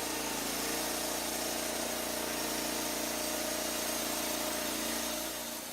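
Engine of a Norwood Lumber Pro HD36 portable band sawmill running steadily at throttle, easing off slightly near the end.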